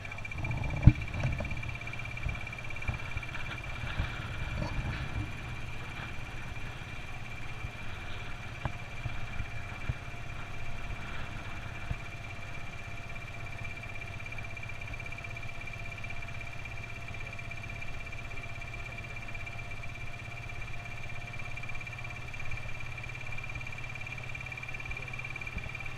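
Truck engine idling steadily, with a steady high whine over it and a single sharp knock about a second in.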